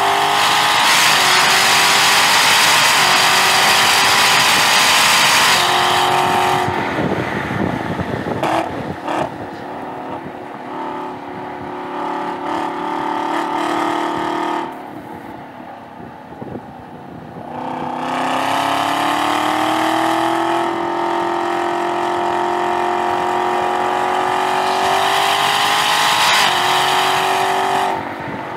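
Chevrolet Camaro ZL1 1LE's supercharged 6.2-litre V8, heard from inside the car at full throttle with its pitch rising, then lifting off about six seconds in. The engine runs quieter through a corner, then pulls hard again from about eighteen seconds with its pitch climbing, and drops away near the end.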